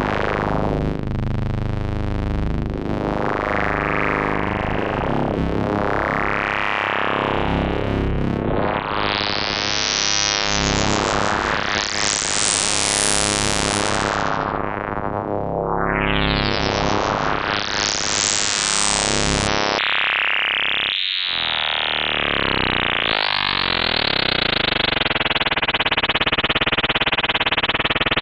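K-ACCUMULATOR synthesizer module playing a dense drone-like tone of folded and stretched subharmonics. Its brightness sweeps up and down in swells every two to four seconds. About two-thirds of the way through it changes suddenly to a steadier, bright tone.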